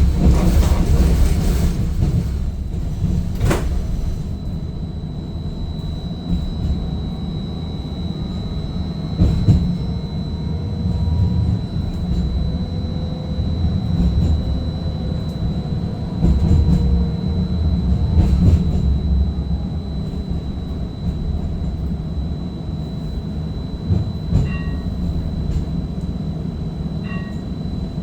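Seattle First Hill streetcar running between stops, heard from inside the car: a steady low rumble of wheels and drive with a thin, constant high whine and a few sharp clicks over the track. Two short beeps sound near the end.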